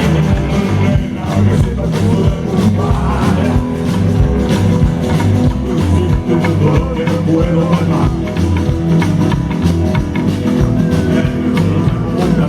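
Rock music, an instrumental passage with guitar over bass and a steady drum beat.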